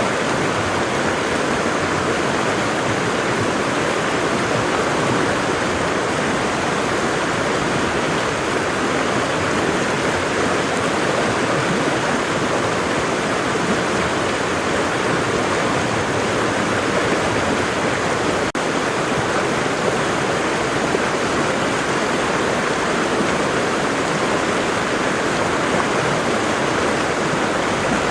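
Waterfall, water falling and rushing in a steady, even roar.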